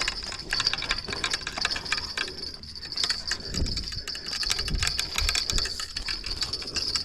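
Strong wind buffeting the microphone in low rumbling gusts, mostly in the second half, over a dense rapid rattling and clicking and a steady high hiss.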